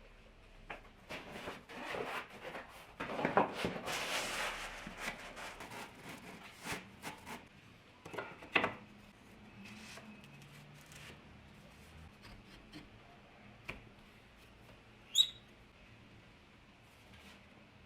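Workshop handling noises: scattered clicks and knocks of parts and tools being handled, with a stretch of rubbing or scraping about three to five seconds in and a single sharp, louder click near the end.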